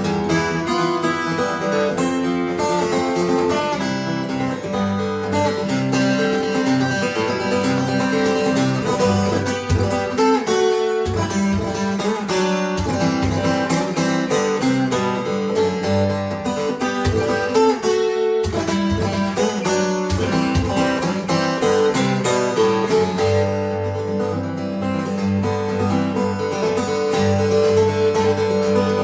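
Acoustic guitar playing an instrumental passage of plucked notes over a bass line, with no singing.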